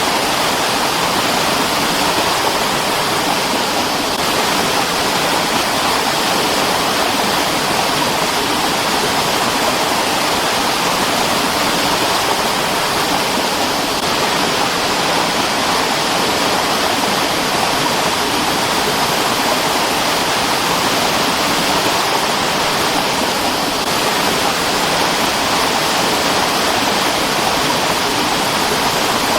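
Mountain stream rushing over rocks: a steady, even rush of water with no break or change.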